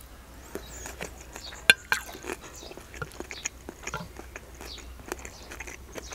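Close-miked chewing of dolma: soft, wet mouth clicks and smacks. About a second and a half in, a sharper clink with a brief ring as the metal fork is set down on the plate.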